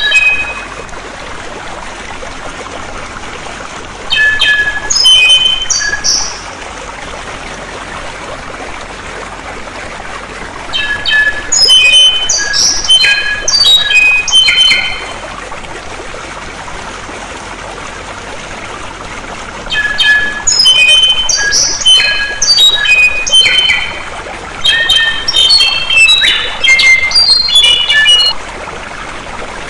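Songbird singing in three bouts of rapid, varied whistled and chattering phrases, over steady flowing water that runs on between the bouts.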